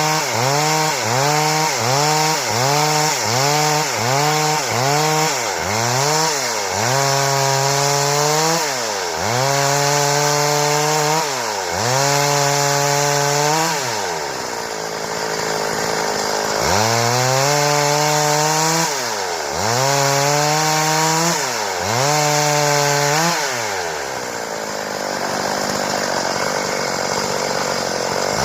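Stihl two-stroke chainsaw revving: the throttle is blipped rapidly, about twice a second, for the first few seconds. It is then held at high revs in several long pulls with brief dips, as when ripping boards. The saw drops to idle about halfway through and again near the end.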